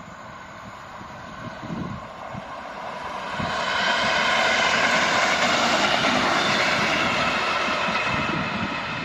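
EN57 electric multiple unit passing: a rush of wheel and traction noise that swells a few seconds in, holds with a steady whining tone over it, then eases off near the end. Wind buffets the microphone throughout.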